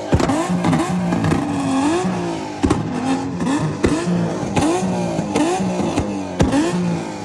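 Car engine revved again and again, the pitch rising and falling in quick blips, with sharp exhaust pops and bangs at intervals.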